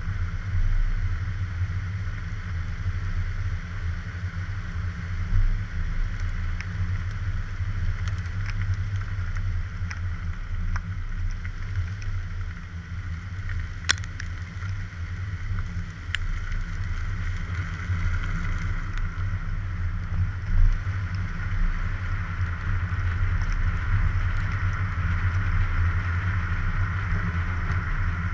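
Moving car's engine and road noise, a steady low rumble picked up by a suction-cup-mounted GoPro, with a sharp click about halfway through and another two seconds later.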